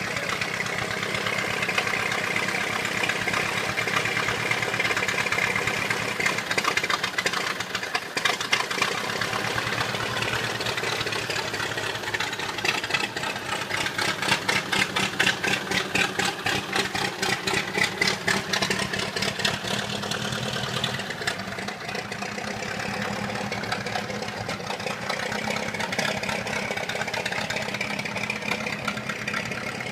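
1926 Ford Model TT's four-cylinder side-valve engine running steadily just after starting, with rapid, even firing pulses that grow sharper for a stretch in the middle.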